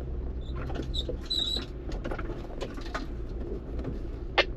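Off-road vehicle engine rumbling low and steady while crawling, with a short high squeak about a second and a half in and a few faint clicks.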